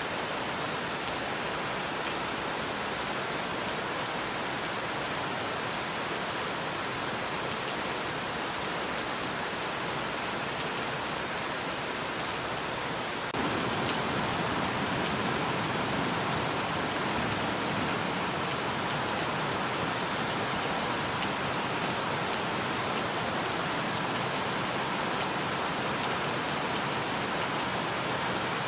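Steady heavy rainfall, a continuous dense patter and hiss of rain on surfaces. About 13 seconds in it steps up a little louder and fuller.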